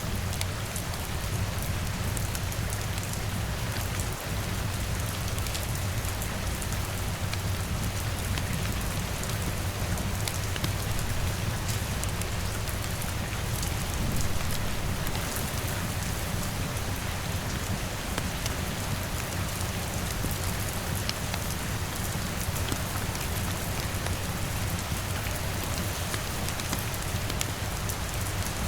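Steady rain falling on a window and roof, a dense even patter of drops with fine ticks throughout and a low steady rumble underneath.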